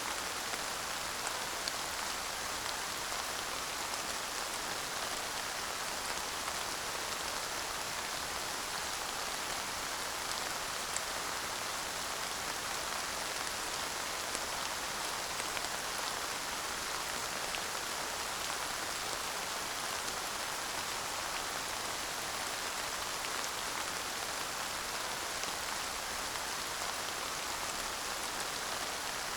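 Steady rain without thunder, an even patter of raindrops falling on a surface with an occasional individual drop tick.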